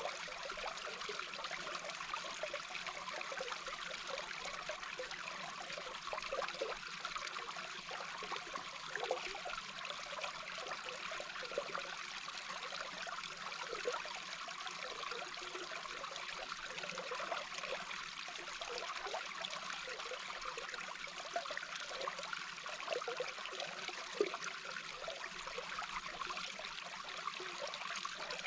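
Small brook's flowing water heard from underwater: a steady rushing hiss with many small bubbling blips throughout.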